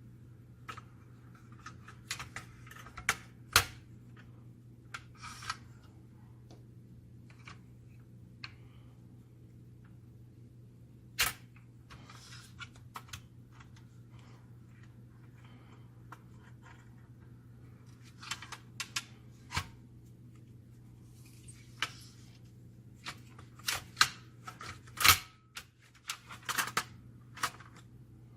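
Sharp plastic-and-metal clicks, knocks and small scrapes of copier fuser unit parts being handled and taken apart by hand, irregular and loudest near the start, in the middle and near the end, over a steady low electrical hum.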